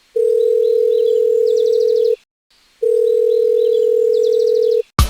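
Telephone ringing tone heard through a handset: two long, steady, mid-pitched beeps with a short pause between them. A sharp hit near the end sets off music.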